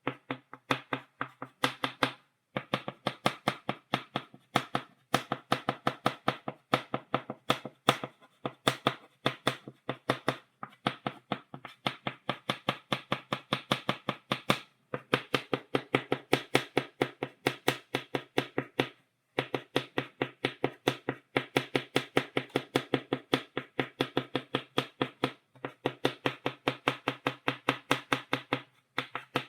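Chalk tapped rapidly against a blackboard, stippling dots: a fast, steady run of sharp clicks, several a second, with a few short pauses.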